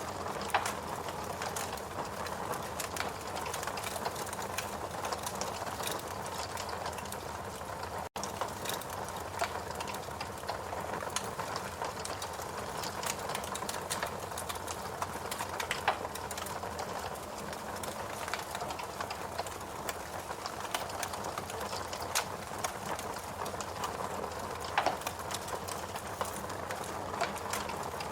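Fireplace crackling: irregular small snaps and a few louder pops over a steady hiss. The sound drops out for a split second about eight seconds in.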